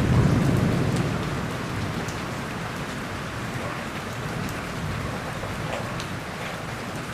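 Steady heavy rain with scattered drop ticks, over a low rumble of thunder that dies away in the first couple of seconds.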